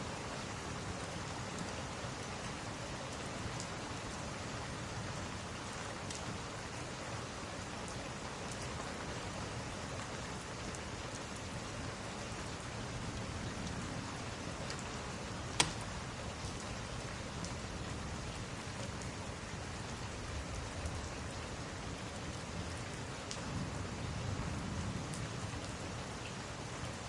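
Steady rain with a wood fire crackling now and then. One sharp, louder snap comes about halfway through.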